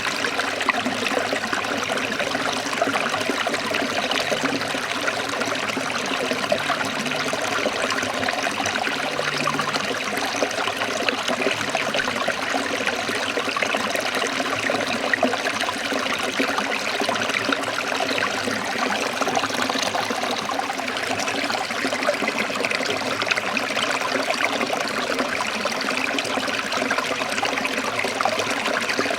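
Forest stream of water trickling and splashing steadily.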